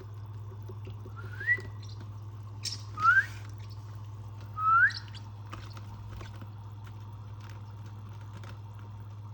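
A person whistling three short rising notes to call pet birds, with a brief loud rustle around the second whistle. A steady low hum runs underneath.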